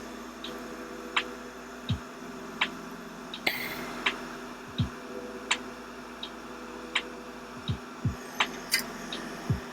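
Regular ticking, about one tick every 0.7 seconds, some ticks with a short low thump, over a steady low hum; a brief hiss about three and a half seconds in.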